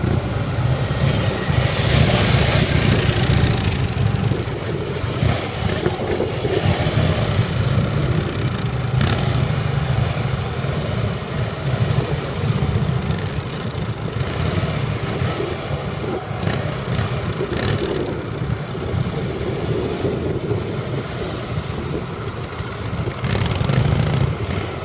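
Motorcycle engine running at low speed, its rumble swelling and easing as the throttle is worked through a tight turn.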